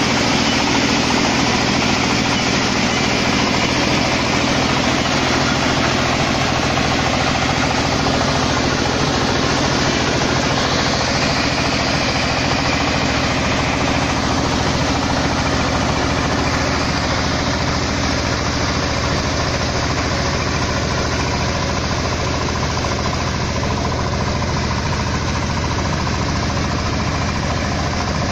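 Mini combine harvester's engine running steadily at a constant speed, with the even noise of its machinery.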